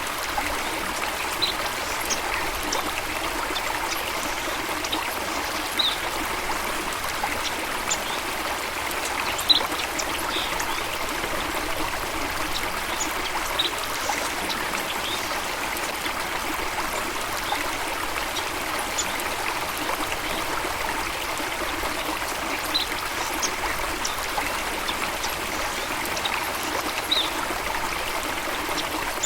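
Steady rushing, trickling water, with brief high splashes and plinks now and then.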